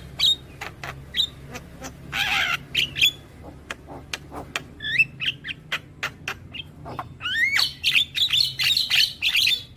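Javan myna (jalak kebo) calling: sharp clicks and short rising whistles, a harsh rasp about two seconds in, and a dense run of chattering notes from about three quarters of the way through. A steady low hum lies underneath.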